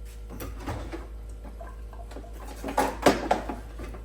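Kitchen handling noises: brief rustles and a few knocks, twice, the louder bunch about three seconds in.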